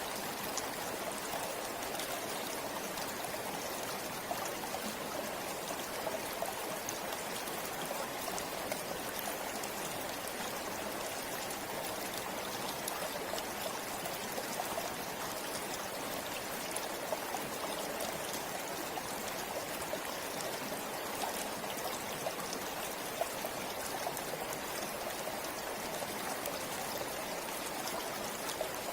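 River water flowing steadily over rocks, a continuous rushing with small splashes now and then.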